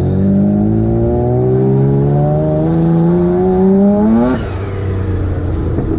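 Turbocharged engine of a twin-engine Mazda MX-3 accelerating hard, its pitch rising steadily for about four seconds before it drops suddenly, as at a shift or lift-off. It pulls without the fuel breakup from before, with an older tune reloaded to replace lean fuel-map cells.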